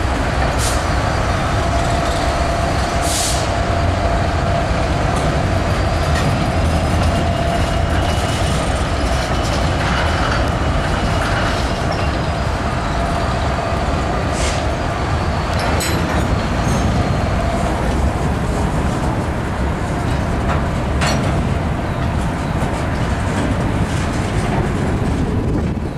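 Canadian Pacific freight train rolling past: diesel locomotives running under a steady rumble of steel wheels on rail. A thin steady wheel squeal sounds for several seconds in the first half, with a few sharp clanks or squeals later.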